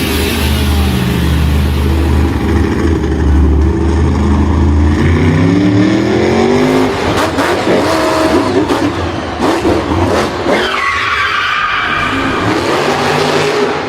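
Vehicle engine revving up and down in repeated pitch glides, with tyre skidding.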